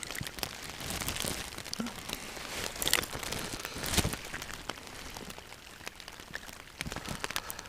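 Steady rain falling, with a scattering of sharp taps from individual drops and a couple of louder ones about three and four seconds in.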